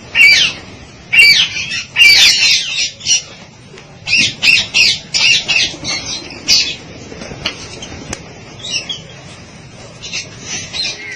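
Birds calling in a rapid series of short, harsh squawks, loud and crowded over the first seven seconds, then fainter and more scattered.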